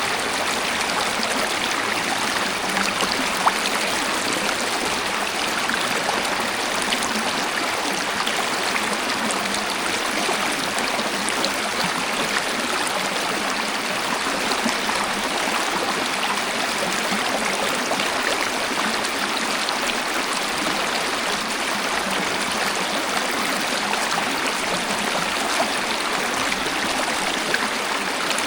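Waterfall: a steady, even rush of falling and flowing water, with small splashes here and there.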